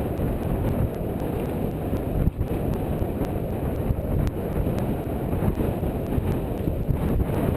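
Steady low rumble of wind buffeting the microphone, with no words over it.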